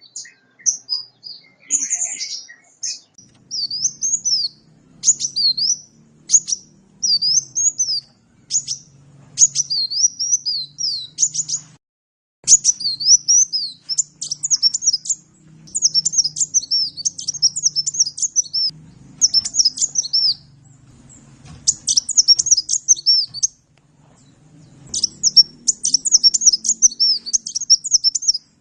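A sunbird (the 'kolibri' of Indonesian bird keepers) singing a fast twittering song of thin, high, sweeping notes in phrases broken by short pauses, two of them about a third and four-fifths of the way through.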